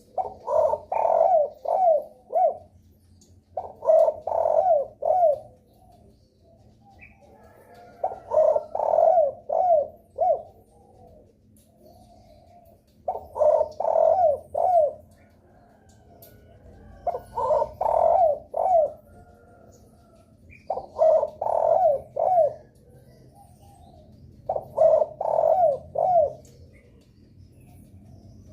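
Spotted dove (derkuku) cooing in repeated phrases of four or five notes, seven phrases about four seconds apart, as a lure call that sets other derkuku calling.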